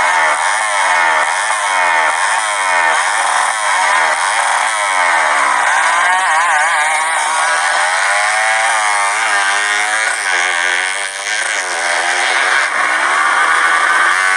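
Motocross bike engines revving hard on a dirt track. The pitch rises and drops in quick repeated sweeps, under a second apart, for the first few seconds, then swings up and down more smoothly through the second half.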